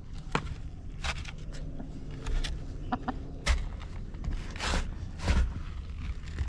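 Backyard hens giving a few short clucks among a series of brief scratching and rustling noises.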